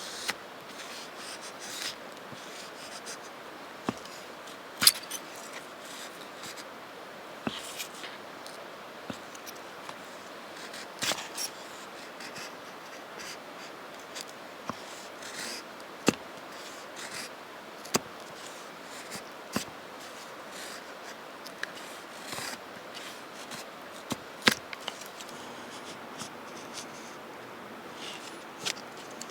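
Knife blade shaving thin curls off a wooden stick to make a feather stick: short, irregular scraping strokes with an occasional sharper click, a second or two apart.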